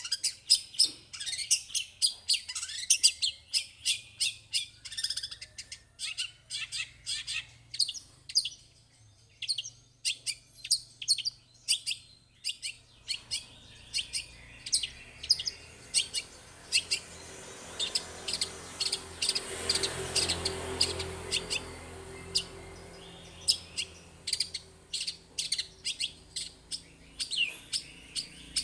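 Long-tailed shrike (cendet) singing in full voice: a fast, unbroken run of sharp, high chirps and short varied notes. From about halfway through, a faint rushing noise rises and falls behind the song.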